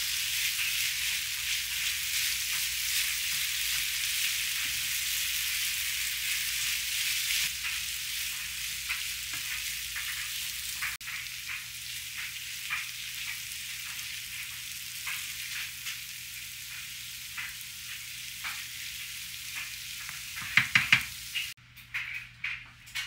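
Grated potatoes frying in olive oil in a pan, sizzling steadily while a wooden spoon stirs and scrapes through them; the sizzle slowly eases off. Near the end come a few sharp knocks, then the sizzling cuts off abruptly.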